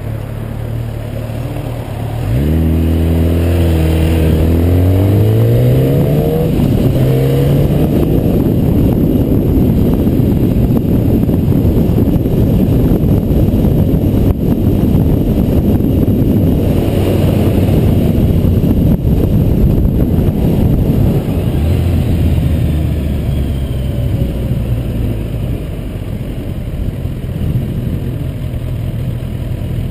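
Kawasaki ZX-10R's inline-four engine running at a steady low note, then accelerating hard from about two seconds in, its pitch climbing in steps through the upshifts. Wind rush covers it at speed, and a little past two-thirds of the way through it drops back to a low steady note as the bike slows.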